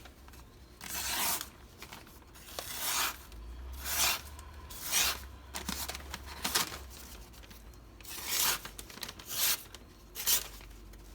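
MAC chef knife slicing through paper in a sharpness test, about eight separate cutting strokes with a papery tearing hiss. The edge cuts cleanly along most of its length, but the tip still needs more sharpening.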